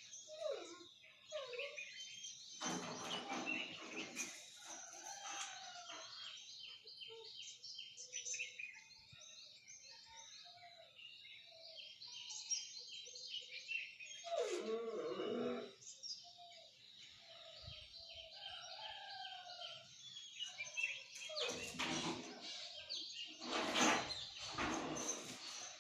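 Many small birds chirping and twittering together in a dense, high-pitched morning chorus, with some lower call notes. Louder, harsher calls or noises stand out a few seconds in, about halfway, and twice near the end.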